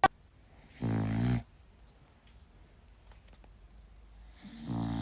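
A dog gives two low, drawn-out grumbling vocalizations a few seconds apart, each about half a second long, a reluctant protest at being told to get up and go outside. A short sharp click comes right at the start.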